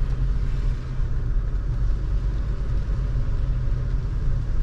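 Car driving along a road, its engine and tyres making a steady low rumble heard from inside the car.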